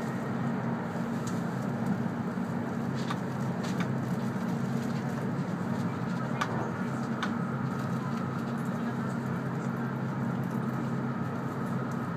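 E2 series Shinkansen running, heard inside the passenger cabin: a steady low rumble with a few faint clicks.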